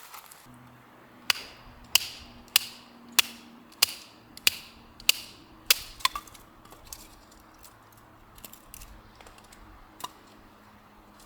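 A run of about nine sharp, evenly spaced knocks, a little over half a second apart, each with a short ringing tail. They are followed by a few scattered lighter clicks over a faint low hum.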